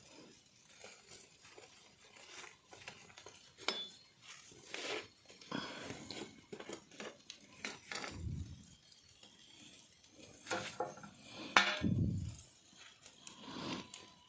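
Wood fire crackling in an open fireplace, with scattered clinks and knocks as potatoes and sausages are handled in it, and two dull thumps.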